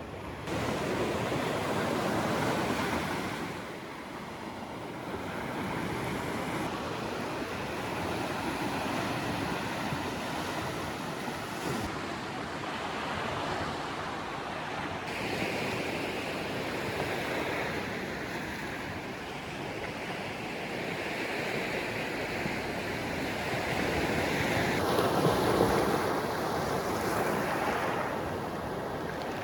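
Baltic Sea surf breaking and washing onto the shore, with wind buffeting the microphone. It is a steady rush that swells and eases, and its character shifts abruptly several times.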